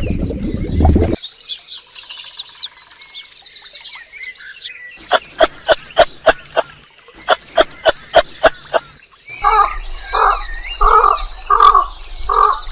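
A run of animal calls: high bird chirping, then a series of short sharp clicking calls about four a second, then repeated short calls about twice a second.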